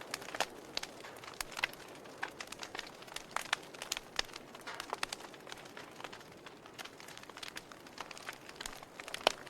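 Wood campfire crackling: irregular sharp pops and snaps, several a second, over a soft hiss, with one louder pop near the end.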